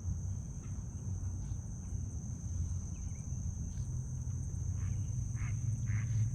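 A few short honking calls from water birds, bunched together near the end, over a steady low hum.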